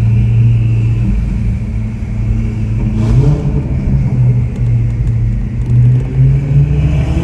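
Ferrari 488 Pista's twin-turbo V8 through a Ryft aftermarket exhaust, running at low, fairly steady revs with small rises and falls in pitch.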